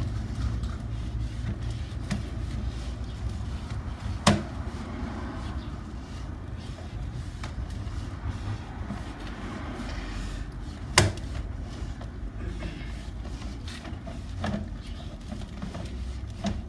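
Steady low rumble of a motor vehicle, with two sharp knocks about four seconds in and again about eleven seconds in, and a softer one near the end.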